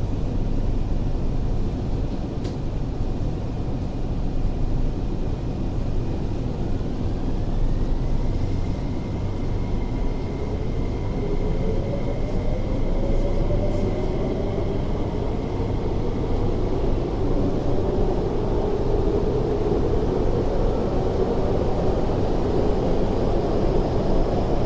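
MTR IKK-train (SP1900) electric multiple unit heard from inside the car: a steady low rumble, with the traction motor whine rising in pitch from about a third of the way in as the train accelerates.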